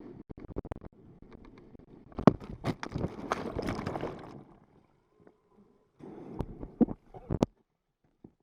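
Water splashing and wind buffeting the microphone on a tube towed at speed, with many sharp knocks and bangs, loudest in the middle, and the sound cutting out almost completely twice.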